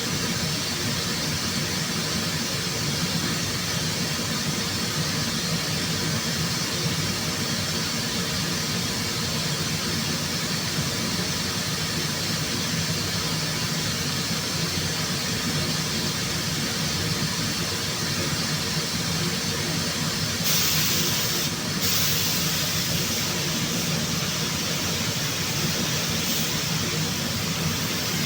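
Steady machine noise in a car body repair shop, with a sharp hiss like compressed air starting about two-thirds of the way through, breaking off for a moment, then carrying on more softly.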